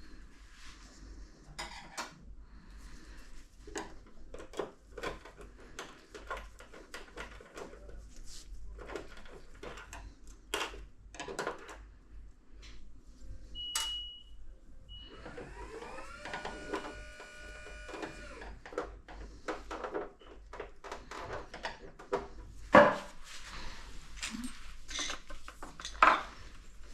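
Clicks and knocks of tools and parts being handled on a workbench, with a short beep about 14 seconds in and a small motor whirring up, holding and winding down for about three seconds in the middle. Two sharper knocks near the end are the loudest sounds.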